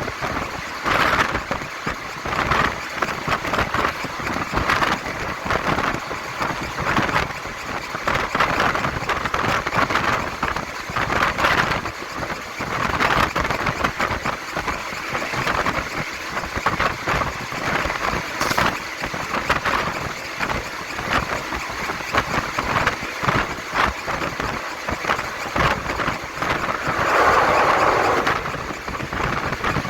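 Passenger train running along the line, heard from aboard: a steady rumble with a constant clatter and rattle of wheels and carriage fittings. A louder rush swells up near the end.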